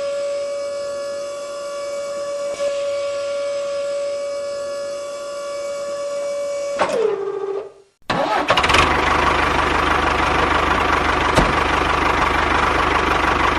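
A small motor whines at a steady high pitch, drops in pitch and stops about seven seconds in. About a second later a loud rattling engine-like sound starts and runs on steadily.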